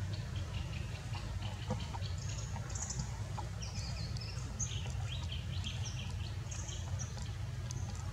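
Birds chirping: many short, high chirps over a steady low rumble.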